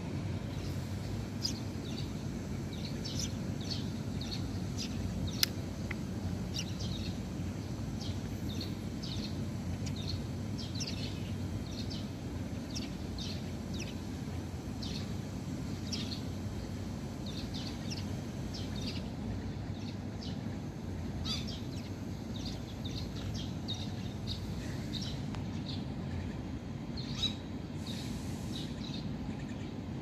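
Birds chirping: many short, high calls in quick, irregular succession over a steady low background rumble, with a single sharp click about five seconds in.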